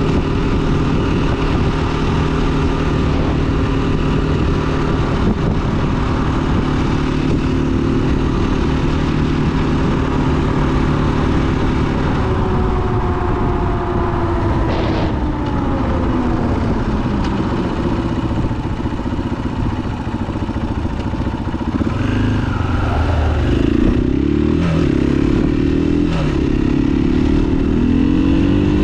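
2021 KTM 500 EXC-F single-cylinder four-stroke dirt bike engine under way. It holds a steady pitch, then winds down as the bike slows, and from about two-thirds of the way through it revs up and down again.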